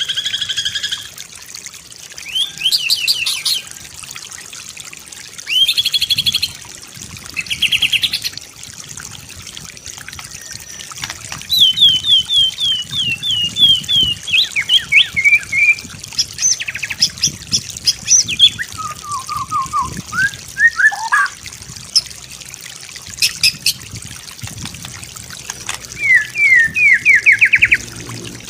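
White-rumped shama singing a string of varied phrases: quick runs of short chirps, a falling series of whistled notes, a few lower whistles, and a rising run of notes near the end. A steady low background noise runs underneath.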